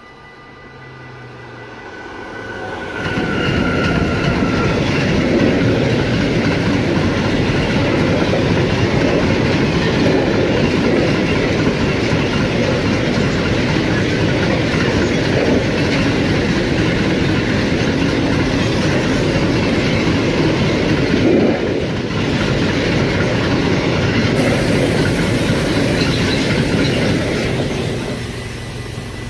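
Long freight train of hopper wagons hauled by an electric locomotive passing close by. The sound swells as the locomotive arrives about three seconds in, holds as a steady loud rumble and clatter of the wagons' wheels on the rails, and eases off near the end as the last wagons go by.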